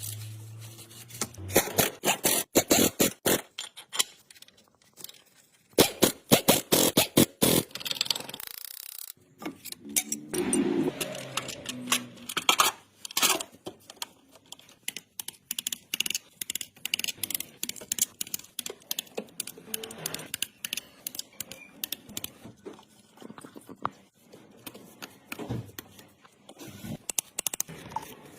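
Hand tools at work on a car engine: rapid, irregular clicks and metallic knocks in bursts, with short pauses between them.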